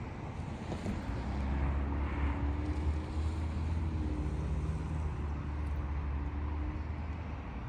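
Low rumble of a vehicle engine running, steady at the bottom with a faint pitched drone that comes in after the first second and fades before the end.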